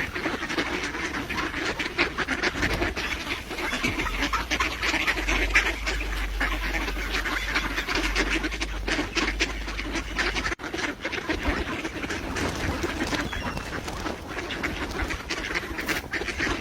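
Ducks quacking continuously, with many small clicks and rustles from the birds crowding around.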